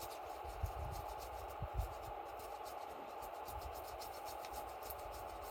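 Wood campfire crackling: many small irregular pops over a steady hiss, with a few low bumps in the first two seconds.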